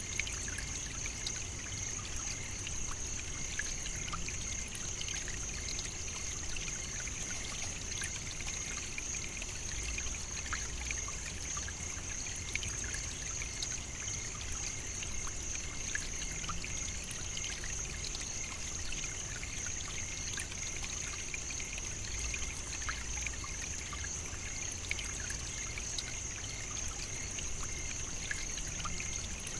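Steady African savannah nature ambience: an unbroken high-pitched drone with faint scattered ticks and a low rumble underneath.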